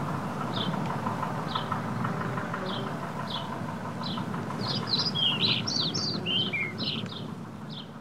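Birds chirping: a short high chirp repeats about every two-thirds of a second, and a flurry of louder, varied chirps comes in the middle, over a steady low background rumble. The sound fades out near the end.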